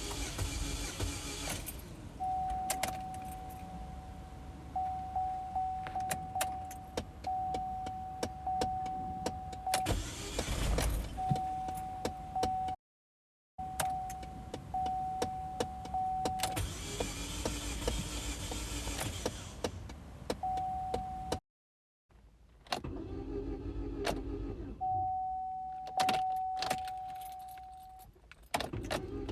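2006 Chevy HHR cranking over in several start attempts without catching, heard from under the fuel tank. A steady whine, the fuel pump running, switches on and off repeatedly between attempts, among many clicks. The car will not start despite a new battery and fresh fuel.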